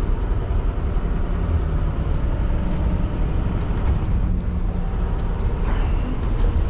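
Scania R620's 16-litre V8 diesel running steadily under way, a continuous low drone with road noise, heard from inside the cab.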